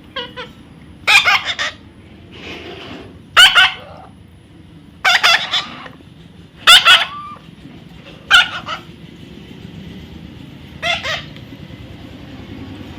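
Parrot squawking: a series of about seven short, loud calls, one every second or two, one of them fainter.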